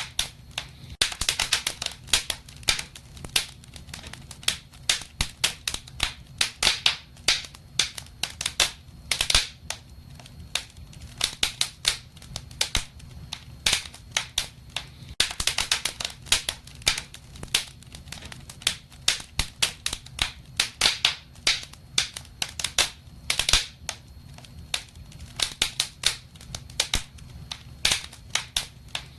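Wood fire crackling in a fireplace: frequent irregular pops and snaps, bunched in quick clusters, over a low steady rumble.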